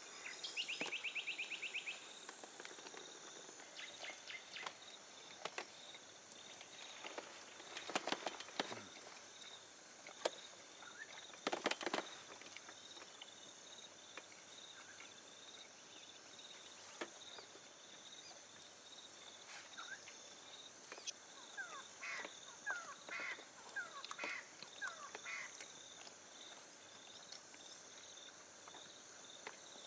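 A steady, high insect chorus, with a fast even trill about a second in. A few sharp clicks or knocks come around 8 to 12 seconds, and short bird chirps follow in the second half.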